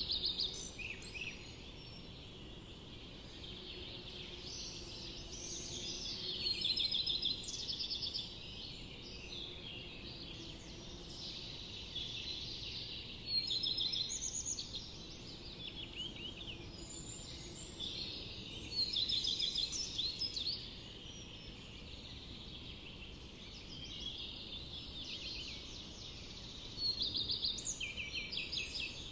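Forest birdsong: several birds calling together, with one loud song of rapid trilled notes coming back about every six seconds.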